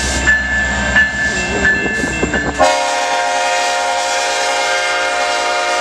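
A CN freight train's locomotive rumbling past, with a bell ringing about once every three-quarters of a second. About two and a half seconds in, the locomotive's air horn sounds one loud, long chord, and the bell is lost under it.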